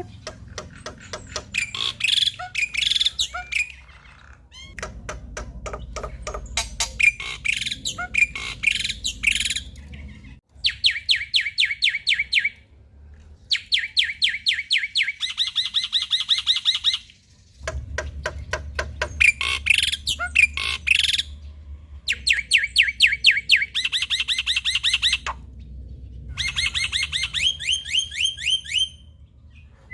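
Male black-winged myna (jalak putih) singing: bursts of a few seconds of fast, evenly repeated trilling notes and harsher chattering calls, broken by short pauses.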